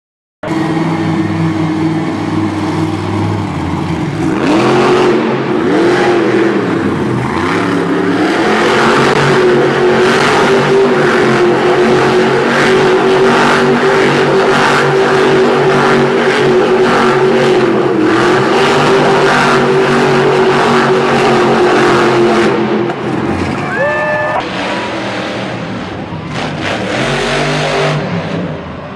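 Monster truck engine running hard at high revs, its pitch dipping and climbing again a few times, then easing off about twenty-three seconds in.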